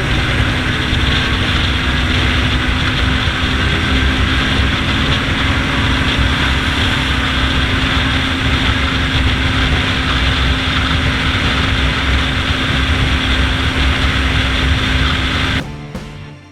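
Motorcycle engine running steadily under a broad rush of wind noise on the microphone; it cuts off abruptly near the end.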